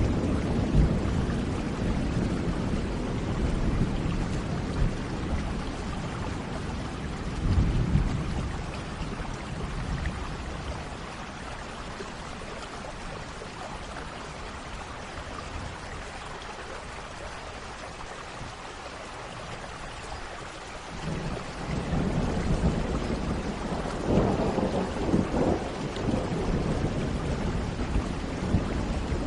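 Thunderstorm: steady rain with rolling thunder. A rumble fades over the first few seconds, a short one comes about eight seconds in, and after a quieter stretch of rain a new, longer roll of thunder builds about three-quarters of the way through.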